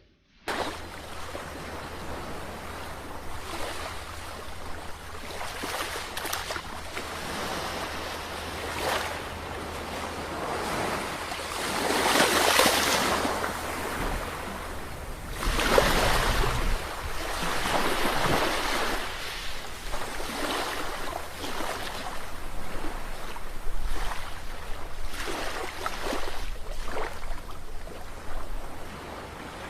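Sea waves breaking and washing ashore, rising and falling, with several louder breakers. A steady low rumble runs underneath.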